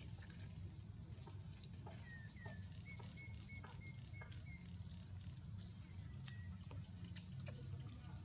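Quiet outdoor ambience: a steady low rumble with a few faint short chirps and scattered small clicks, and one sharper click about seven seconds in.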